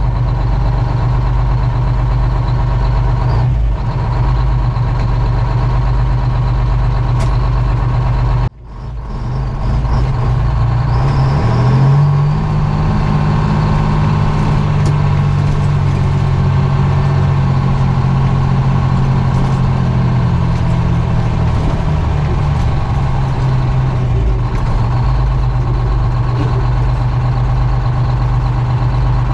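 GMC Crackerbox semi's two-stroke Detroit Diesel engine running loud and steady under way. It breaks off sharply for a moment about eight seconds in, then its pitch climbs as it pulls harder, holds, and eases back later on.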